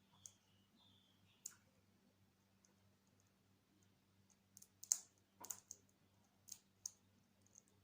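Scattered sharp clicks and snaps from an African grey parrot's beak, with a quick run of them about five seconds in, over a faint steady hum.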